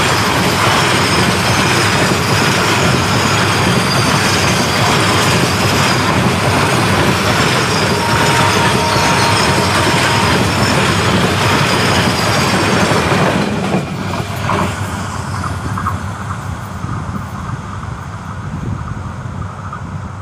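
Freight train of bogie covered wagons rolling past close by: steady wheel-and-rail rumble and clatter, with a brief faint wheel squeal about eight seconds in. About two-thirds of the way through the noise drops suddenly and the hiss goes, leaving a quieter low rumble.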